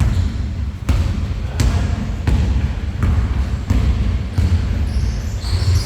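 Basketball being dribbled on a court floor, a sharp bounce about every 0.7 seconds, over a steady low rumble.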